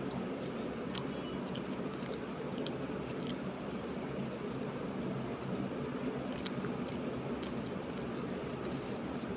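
A person chewing a mouthful of baingan bharta with rice and roti, with scattered soft wet mouth clicks over a steady background noise.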